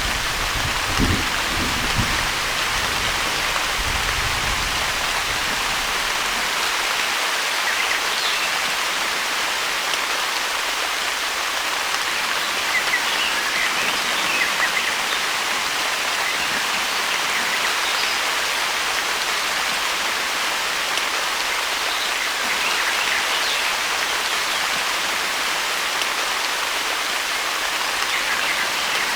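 Steady rain falling, an even hiss. The low rumble of a thunderclap dies away in the first few seconds.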